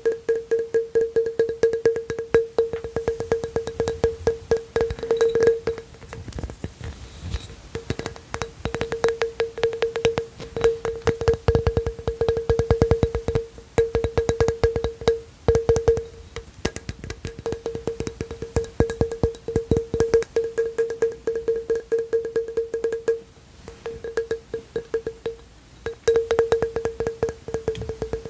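Rapid, dense tapping on an object, over a steady ringing pitch that breaks off briefly now and then.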